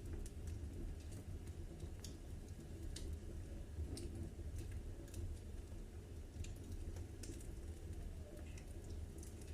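Wood fire in a fireplace crackling: irregular sharp snaps and pops a few times a second over a low, steady rumble of the flames.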